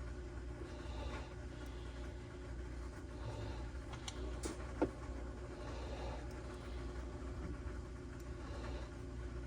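Steady low hum of a workshop, with a few light clicks and taps of small carburetor parts being handled, and one sharper click about five seconds in.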